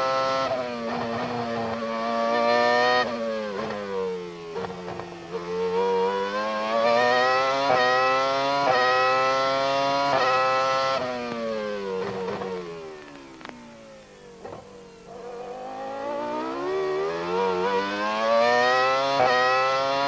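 A Formula One V10 engine heard onboard, revving to a high-pitched scream and dropping sharply at each quick upshift. Twice it falls in pitch through a string of quick downshifts while braking, quietest about two-thirds of the way in, then climbs again under acceleration.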